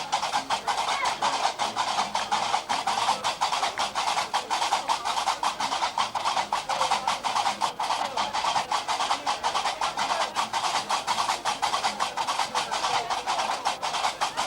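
Gnawa music: qraqeb, the iron castanets, clacking in a fast, steady rhythm.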